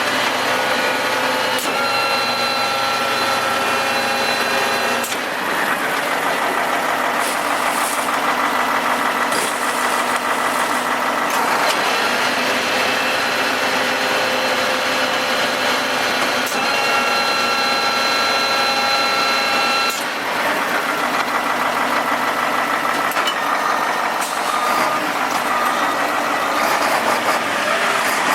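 Automated side-loader garbage truck at work, its engine running under a steady whine made of several tones. The whine starts, stops and shifts in pitch several times.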